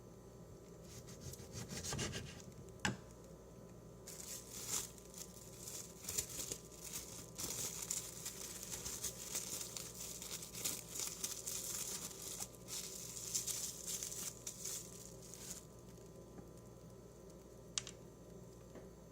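Kitchen food-preparation handling: a few sharp taps, then about eleven seconds of dense crinkly rustling and tearing, then a single click near the end.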